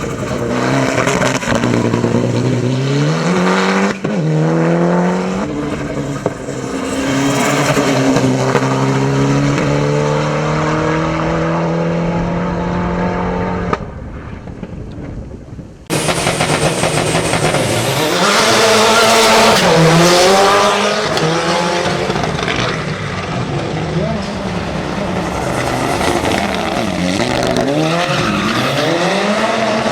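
Mitsubishi Lancer Evo VIII hill climb prototype at full race pace: the engine's revs climb and drop sharply with each gear change. About halfway through the sound falls away for a couple of seconds, then returns with quick rises and falls of the revs.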